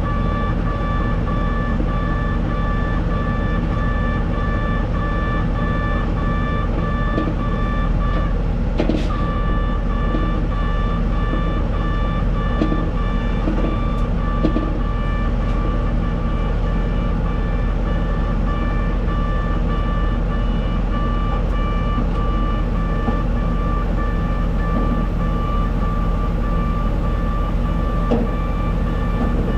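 Rapid electronic beeping: a high tone chopped into short, evenly spaced pulses, over a steady low engine rumble, with a single sharp knock about nine seconds in.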